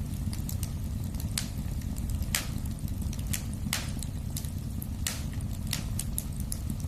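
Wood fire burning in a fireplace: a steady low rumble of flames with sharp, irregular crackles and pops from the burning logs, roughly one or two a second.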